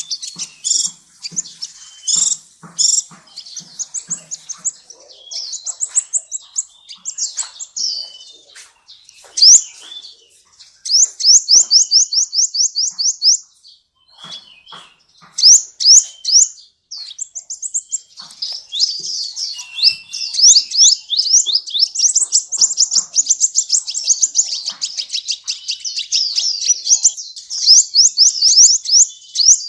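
Sunbird song: a loud, high-pitched run of rapid chirps and fast trills, some at about seven notes a second, with a couple of brief pauses.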